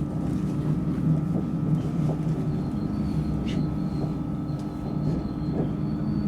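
Metro train running, with a steady low rumble and motor hum, a few light clicks from the wheels, and a faint high whine that comes in about two and a half seconds in.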